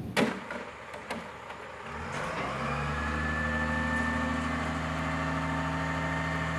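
A click, then about two seconds in an engine sound starts, rises briefly in pitch and settles into a steady run.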